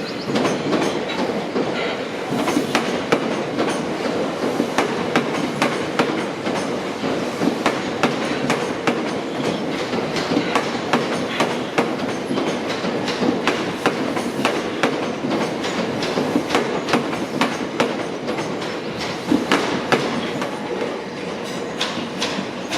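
A train's wheels running over rail joints and pointwork: a long run of sharp, irregular clicks over a steady rumbling hum.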